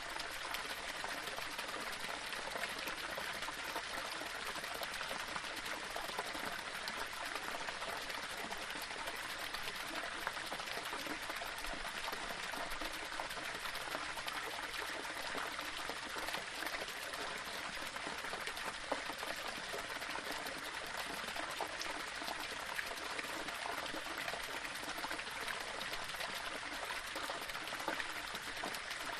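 Small waterfall running steadily over stones: an even splashing and trickling of water.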